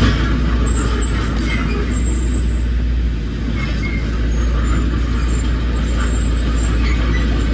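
Heavy earthmoving machine's diesel engine running steadily, a deep low rumble that dips slightly about three seconds in.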